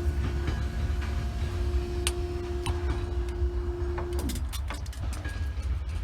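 Class 66 diesel locomotive passing over the level crossing. Its steady engine drone falls in pitch about four seconds in, over a constant low rumble, with scattered sharp clicks of wheels on the rails.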